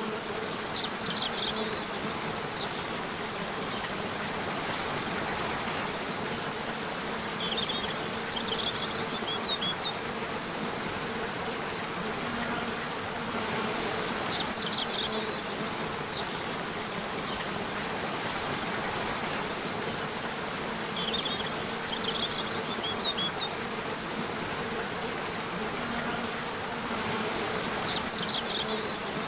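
Nature ambience: water flowing steadily under a continuous insect buzz, with small clusters of short high-pitched chirps about every six or seven seconds.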